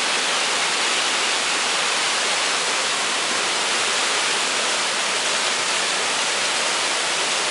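Mountain creek water cascading over rocks: a steady, even rush of falling water.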